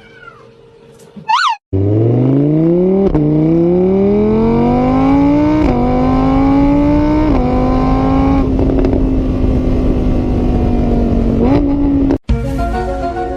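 Car engine accelerating hard through the gears: its pitch climbs, drops at each of three upshifts, then holds steady at high revs before cutting off abruptly.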